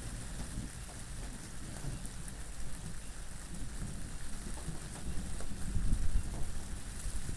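Steady rain hissing, with scattered individual drops, over a low wind rumble that swells to a gust about five to six seconds in.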